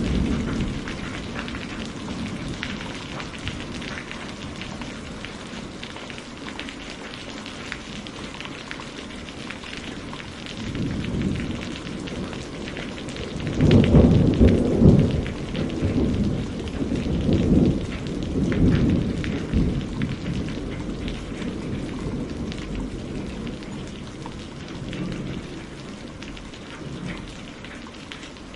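Campfire crackling and popping steadily, with many small sharp snaps. Low rushing rumbles swell up several times, the loudest about halfway through.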